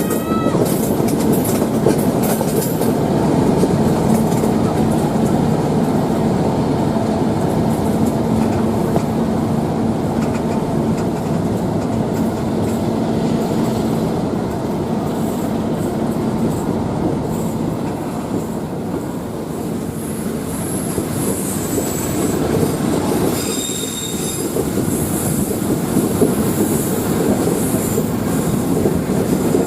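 Passenger train running on the track, with a steady rumble of steel wheels on rail. From about two-thirds of the way in, high-pitched wheel squeal comes and goes, typical of steel wheels grinding through the tight curves of a mountain line.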